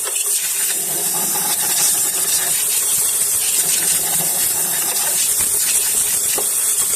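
Compressed-air blow gun hissing in one long, steady blast, blowing dust out of a car's empty air filter box.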